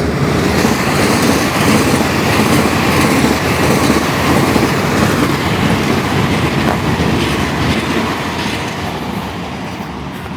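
A train passing close by on the rails, its wheels clattering loudly, the sound swelling in at the start and fading away over the last few seconds as it moves off.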